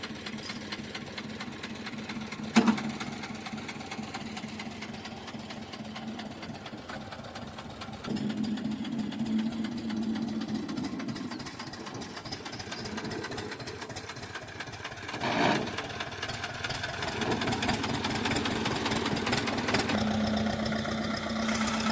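HMT tractor's diesel engine idling with a knocking rumble, getting louder for a few seconds about eight seconds in and again near the end. There is a single sharp knock about two and a half seconds in.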